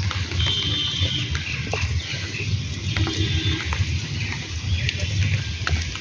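Outdoor monsoon ambience: a steady rush of rain and wind noise with birds chirping, and a short held animal call about half a second in and again about three seconds in.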